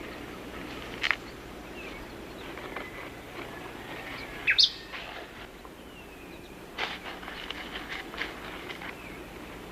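Rainforest ambience of birds calling over a steady background hiss: scattered short calls, the loudest a sharp call about halfway through, with a cluster of small chirps near the end.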